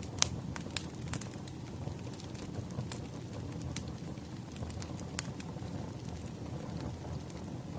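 Wood fire crackling: a steady low rumble with irregular sharp pops and snaps, the loudest about a quarter of a second in.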